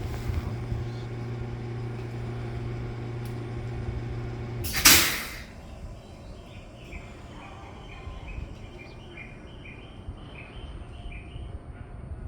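Electric limited express train at a station platform: a steady electrical hum, cut about five seconds in by a loud, short hiss of air that fades quickly. After it, a quieter scene with a string of short, repeating high tones.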